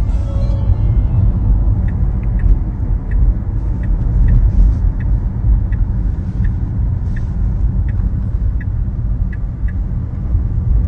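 Steady road and engine-bay rumble inside a moving Tesla's cabin, with a light tick repeating about twice a second, typical of the turn signal during a traffic merge.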